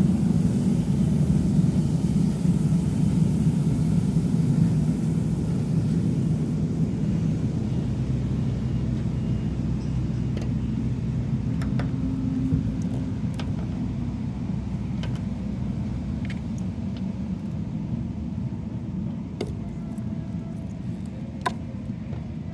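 Low, steady rumble of road-resurfacing machinery that slowly fades away. Scattered light clicks and taps come through in the second half.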